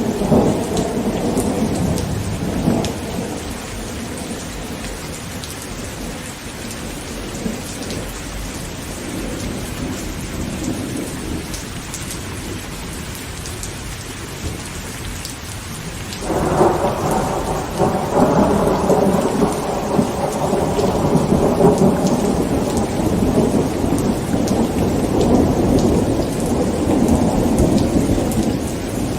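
Heavy rain falling on a tent, with scattered drop hits, under thunder. A rumble dies away over the first few seconds, and a new loud peal of thunder breaks suddenly just past halfway and rolls on almost to the end.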